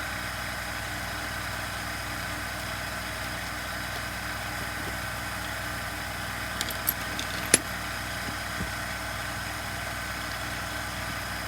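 Steady background machine hum, with a few light clicks about seven seconds in, the sharpest near the middle, as small parts are handled.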